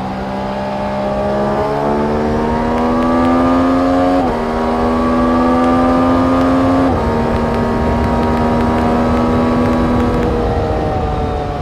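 Motorcycle engine accelerating hard, its pitch climbing and dropping sharply at two upshifts about four and seven seconds in. It then holds a steadier, slightly falling note that eases off near the end.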